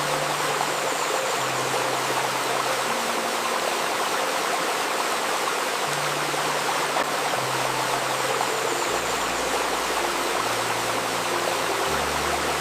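Shallow river babbling steadily over stones, with soft low sustained synth notes under it that shift every second or two and thicken near the end.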